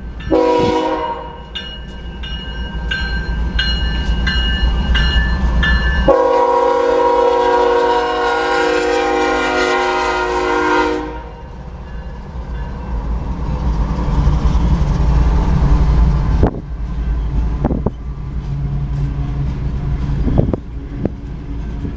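A freight train's diesel locomotives pass through a grade crossing, led by a GE ES44C4. The air horn gives a short blast near the start and a long blast from about six to eleven seconds in, over the steady dinging of the crossing bell. The locomotives then go by with a loud engine rumble, followed by the clatter of freight-car wheels over the rails.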